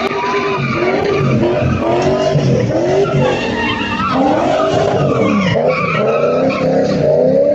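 Car drifting: tyres squeal continuously while the engine revs, with several pitches gliding up and down and overlapping.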